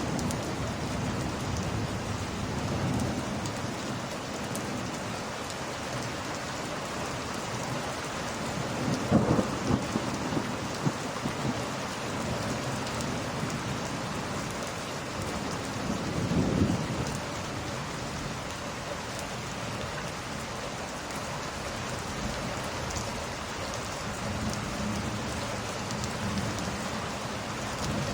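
Steady rain falling, with two swells of thunder rumbling, about nine seconds in and again around sixteen seconds.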